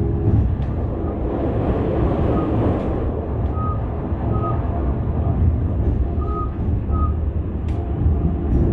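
Train carriage running along the track, heard from inside: a steady low rumble with rail noise. A few short, faint high tones come in pairs in the middle, and a couple of light clicks near the end.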